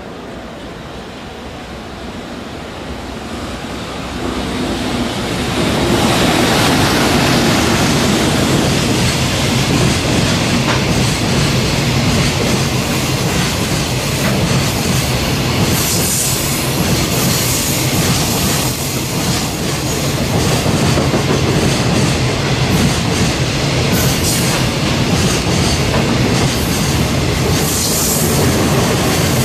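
Freight train passing close by. The rumble builds over the first few seconds, then a long steady run of wagon wheels rolling over the rails, with brief sharp high sounds now and then.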